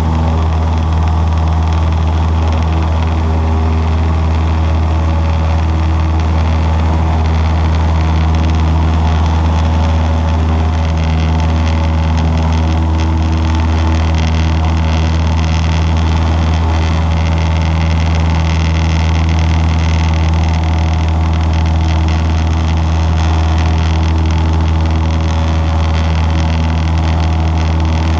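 Cessna 152's four-cylinder Lycoming O-235 piston engine and propeller droning loudly and steadily at constant power, with no change in pitch.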